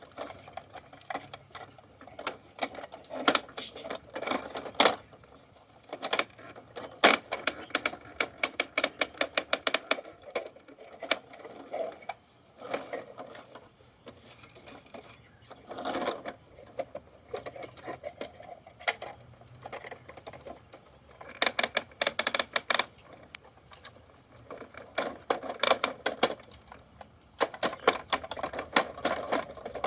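Plastic clicking and clattering of a Bruder toy front-loader garbage truck being worked by hand, in quick runs of sharp clicks with short pauses between.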